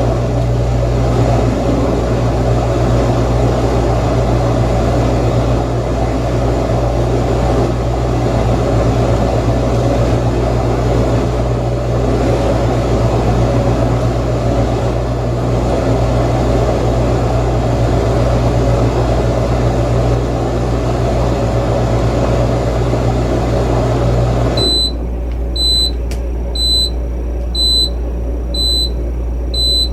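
Haier HDC1804TW countertop dishwasher running with a steady low hum that cuts off suddenly about 25 seconds in. It then beeps about once a second, six times, signalling that its heavy cycle has finished.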